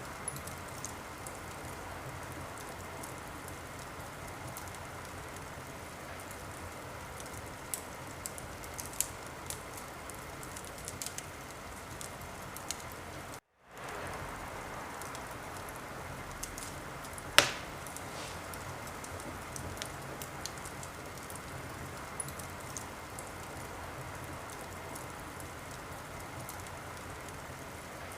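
Wood fire in a fireplace crackling steadily, with scattered small pops and one sharp, much louder pop a little past halfway. The sound cuts out completely for a split second about halfway through.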